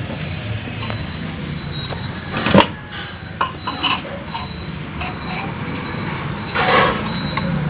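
A few sharp metallic clinks and knocks, with a short scrape near the end, as the XL100 moped's cylinder barrel is lifted and set onto the engine's studs over the piston, against a steady background hum.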